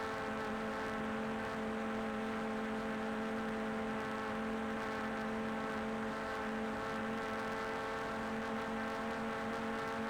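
Quadcopter drone's propellers whirring steadily at a hover, a high, even hum of several held tones.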